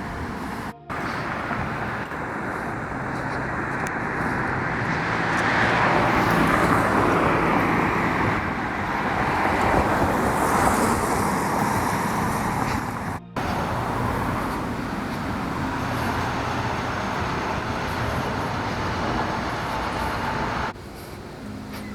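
Steady outdoor noise like road traffic, swelling and fading as if vehicles pass. It drops out briefly about a second in and again about halfway through, and changes near the end.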